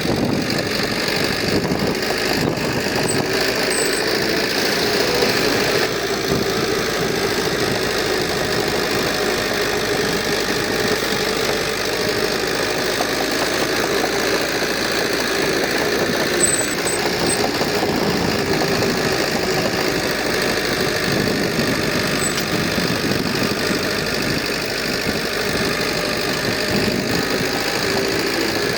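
Heavy diesel engine of earthmoving equipment running steadily throughout, with a few faint high ticks.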